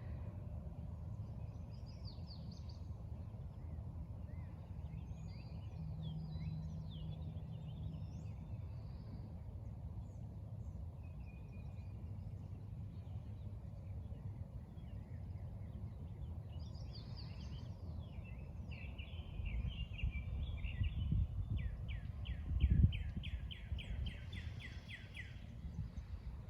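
Wild birds calling and singing in short scattered chirps, with a fast run of evenly repeated notes near the end, over a steady low rumble. A single louder low thump comes about three-quarters of the way through.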